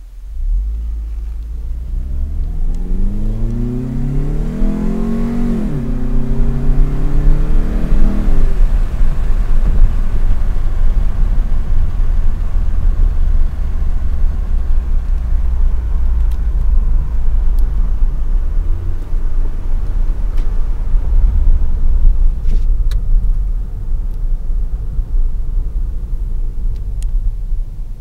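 2011 Scion tC's 2.5-litre four-cylinder with an Injen short ram intake accelerating: the engine note rises, drops sharply as the automatic upshifts about five seconds in, and climbs again. After that it settles into a steady low rumble of cruising.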